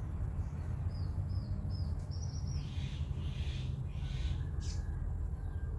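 A bird chirping several times in quick succession, short high notes starting about a second in, followed by a few rougher, noisier sounds, over a steady low rumble.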